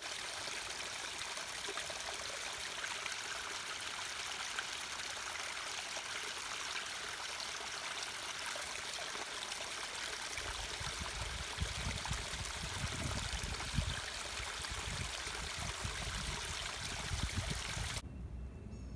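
Steady rushing noise of running water. Low irregular rumbling joins about halfway through, and the rushing cuts off abruptly near the end.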